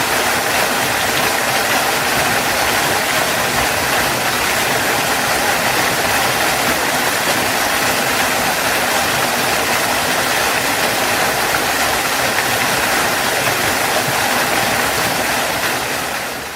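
Waterfall: a steady, even rush of falling water, fading out near the end.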